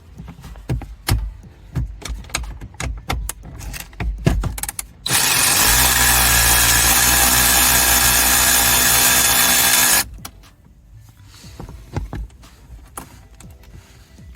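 Clicks and knocks of handling, then a power drill runs steadily for about five seconds, starting about five seconds in, backing out a 10 mm bolt. A few quieter clicks follow.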